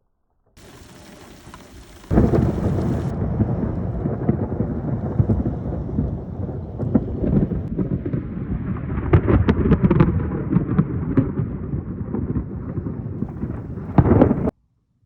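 Heavy rain pouring during a thunderstorm, with deep rumbling thunder. It starts faintly, turns loud about two seconds in with surging swells, and cuts off suddenly near the end.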